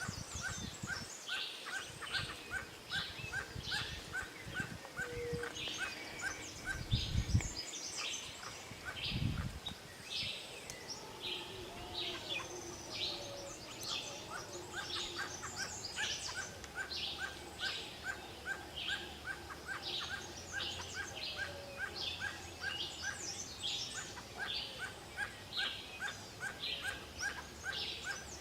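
A barbet calling a long, evenly paced series of short repeated notes, about three a second, pausing briefly now and then, while other birds chirp higher over it. A couple of low thumps sound early on.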